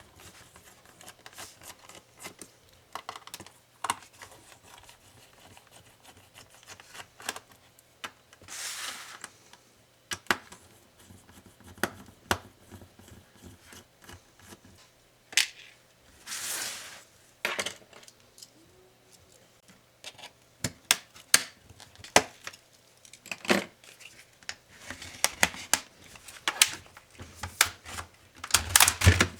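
Hand disassembly of an Acer Swift SFX14-41G laptop: scattered small clicks and taps of its plastic and metal parts being handled, with two short scraping swishes about 9 and 17 seconds in. A quicker run of clicks comes near the end.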